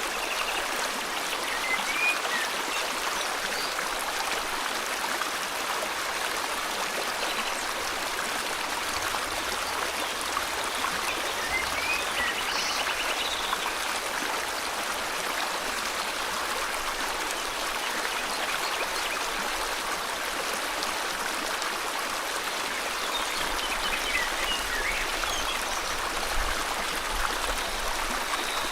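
River water flowing steadily. A few faint, short bird chirps and a brief trill come through now and then.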